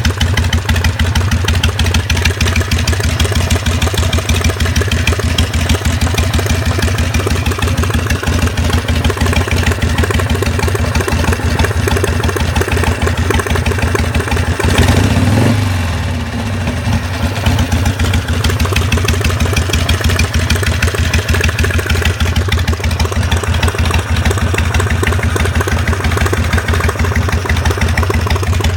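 2004 Harley-Davidson Sportster's air-cooled V-twin idling, with a knocking noise whose cause the owner is trying to find. About halfway through, the throttle is blipped once: the engine note rises briefly and falls back to idle.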